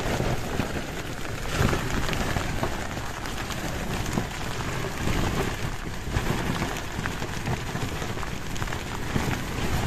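Torrential rain beating on a tent, a dense steady patter of drops over a low rumble.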